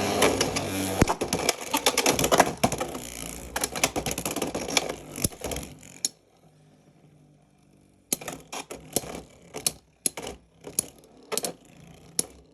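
Two Beyblade X spinning tops battling in a plastic stadium: a dense clatter of hits and scraping for about six seconds, a quiet stretch as they spin, then a string of separate sharp clacks as they collide again.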